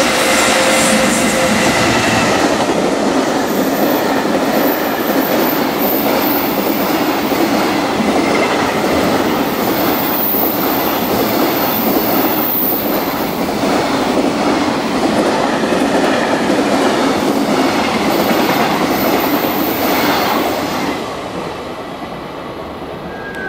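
An electric freight locomotive passes with a steady motor whine. A long train of container wagons follows, rolling by with a rhythmic clatter of wheels over rail joints. The sound dies away a couple of seconds before the end.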